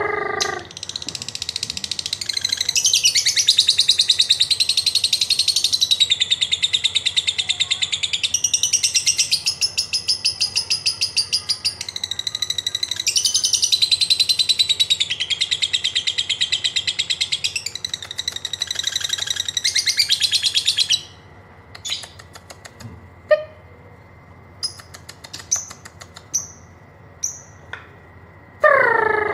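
Lovebird giving a long 'ngekek': a very rapid, high, chattering trill held for about twenty seconds in several joined phrases, then breaking into scattered short chirps, with a short falling call near the end.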